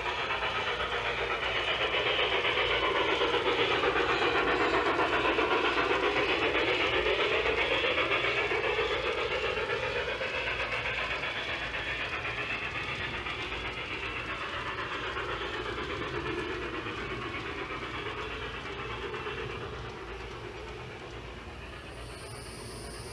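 LGB G-scale model train running on its track, the motor and wheels on the rails coming close, loudest about four to eight seconds in, then slowly fading as it moves away.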